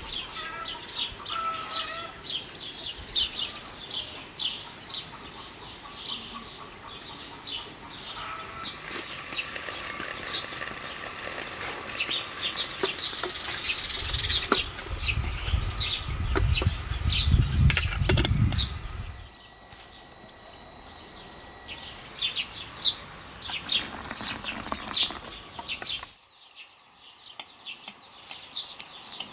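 Small birds chirping in quick, repeated short calls. A low rumble swells for several seconds midway, and the sound drops off abruptly near the end.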